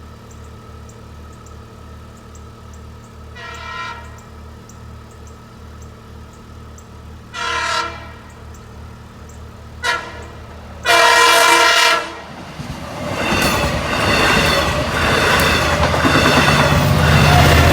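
A Long Island Rail Road diesel passenger train sounds its horn in four blasts, each louder as it nears: two medium, a very short one, then a longer, loud final blast, the grade-crossing pattern. The train then passes close by with a loud rumble and wheel noise.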